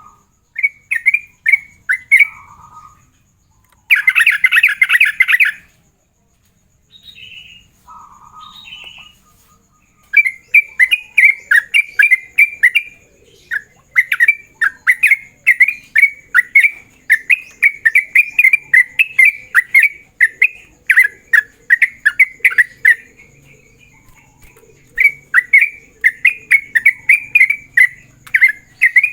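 Yellow-vented bulbul singing loud, fast runs of short, chattering notes, the rapid rolling 'ropel' song that is used to call out a rival bird. There is a dense burst early on, and long runs from about ten seconds in. A faint steady high hum lies underneath.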